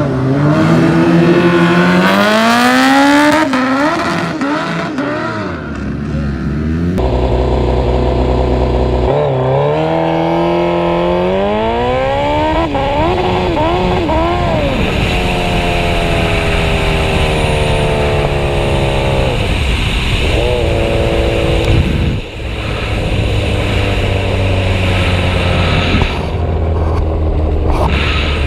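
Drag-racing motorcycle engines at full throttle, the pitch climbing hard and dropping back at each quick upshift as they accelerate. After a cut, another run climbs through its gears the same way, then the engine note slowly falls away into a steady low drone.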